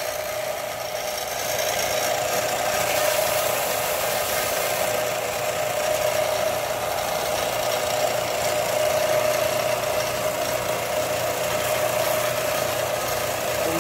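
A power grinder running steadily as it grinds the knife, a constant motor hum with a steady hiss of abrasive on the work.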